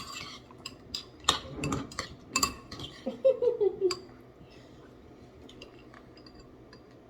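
Spoons clinking and scraping against a bowl of fruit, a quick run of sharp clinks over the first four seconds, then only a few faint taps. A short murmured voice falls in pitch near the middle.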